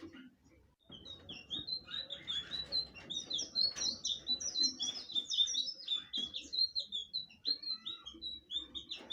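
A blue flycatcher (sikatan biru) singing a long, fast run of short, high chirping notes that starts about a second in.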